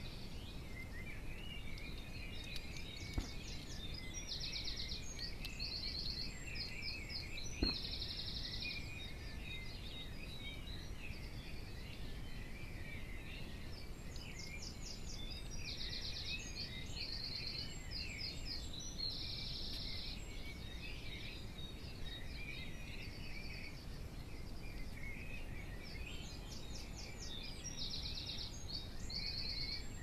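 Birdsong of the early dawn chorus: one songbird sings the same phrase of rapid high trills three times, about every eleven seconds, over scattered chirps from other birds. Two short knocks are heard, the louder one about eight seconds in.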